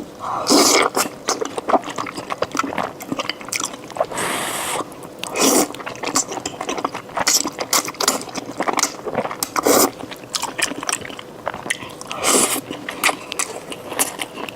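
Close-miked mouth eating wide starch noodles in a spicy sauce: rapid wet clicks of chewing, with several short slurps about every few seconds.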